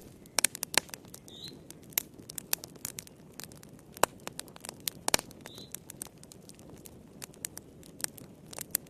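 Wood fire crackling, with irregular sharp pops and snaps over a soft hiss. A faint short high chirp comes three times, about every four seconds.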